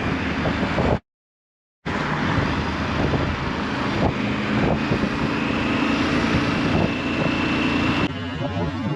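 Motorcycle riding at speed: wind rushing over the camera microphone with the engine running steadily underneath. The sound cuts out completely for under a second, about a second in.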